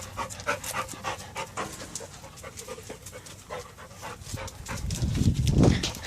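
A dog panting quickly and steadily after jumping. A low rumble comes in near the end.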